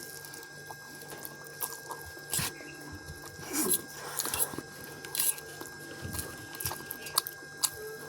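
Eating spicy instant noodles: close chewing with irregular short smacking clicks.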